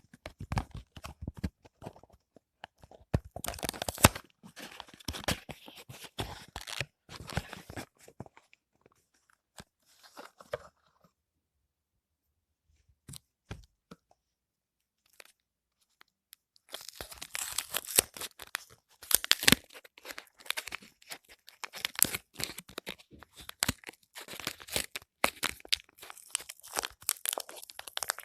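Soap wrappers being torn open and crinkled by hand: runs of tearing and crackling packaging, with a quiet stretch of several seconds midway.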